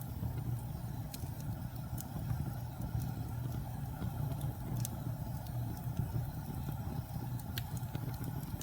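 Wood fire burning with a steady low rumble and a few sharp crackles and pops, the strongest about five and seven and a half seconds in.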